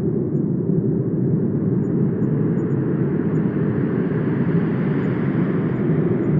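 Wind blowing as a steady low rush, gathering into a stronger, hissier gust about five seconds in before easing back.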